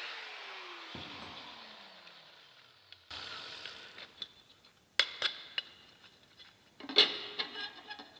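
A power tool's motor winding down after being switched off, its pitch falling steadily as it coasts to a stop over about three seconds. Then a brief rush of noise and a few sharp metallic clinks and knocks, the loudest about two-thirds of the way in.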